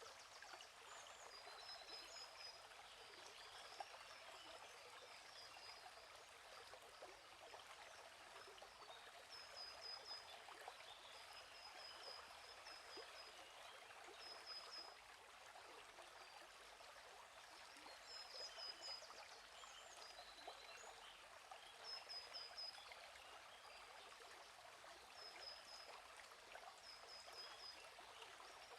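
Faint, steady rush of a gently flowing stream. Over it a small bird gives short runs of quick, high chirps every few seconds.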